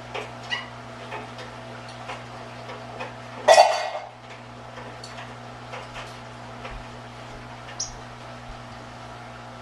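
Dishes being handled during cleaning: scattered light clinks and taps, with one louder clatter that rings briefly about three and a half seconds in, over a steady low hum.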